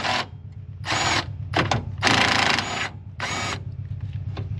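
Power tool run in about five short bursts, each under a second, with a steady low hum underneath.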